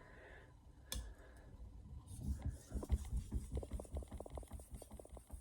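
Santoku knife blade sliding back and forth on a wet soaking whetstone, a quick run of short, even sharpening strokes from about two seconds in, after a single click about a second in.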